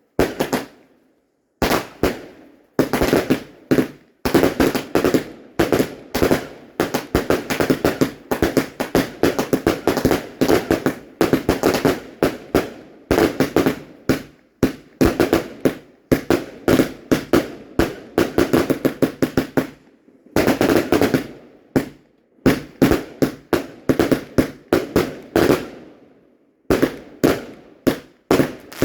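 Fireworks going off: rapid sharp bangs, several a second, in long continuous volleys broken by brief pauses about 20 and 26 seconds in.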